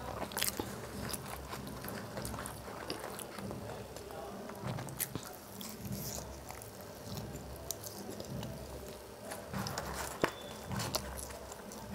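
Close-up chewing and biting of McDonald's French fries, with short crackly clicks of mouth sounds and the paper fries carton crinkling as a hand reaches in for more.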